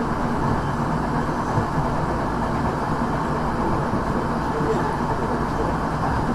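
Tokyo Metro 6000 series electric commuter train running between stations, heard from inside the car: a steady rumble of wheels and running gear with a faint steady hum.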